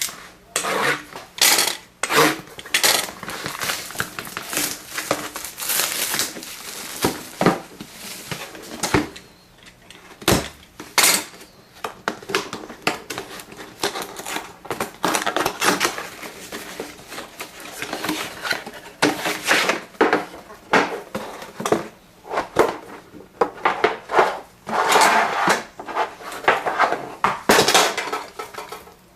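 A sealed hockey trading-card box being unwrapped and opened by hand: irregular rustling, crinkling and tearing of the wrapping, with sharp clicks and knocks as the box and its packaging are handled.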